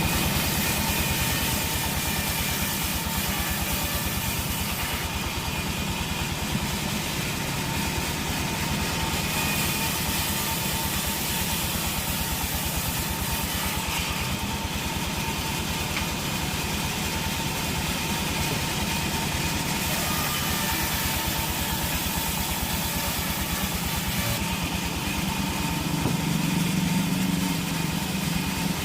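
Sawmill machinery running steadily: an engine-like drone with a fast even pulse and a thin steady whine above it, unchanging throughout.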